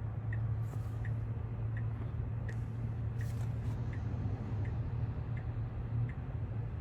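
Car turn-signal indicator ticking steadily inside the cabin, about one and a half clicks a second, over a steady low hum of the car waiting at an intersection.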